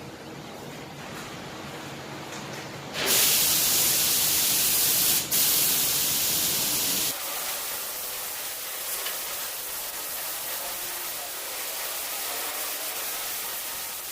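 Paint spray gun hissing as it sprays copper-powder varnish onto a steel door. A loud spray starts about three seconds in, breaks off for an instant, stops about seven seconds in, and a softer hiss carries on after it.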